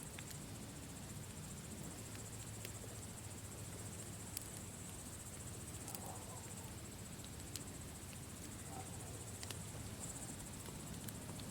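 Campfire burning with a steady low rush and a few sharp, sparse crackling pops, over a steady high-pitched chirring in the background.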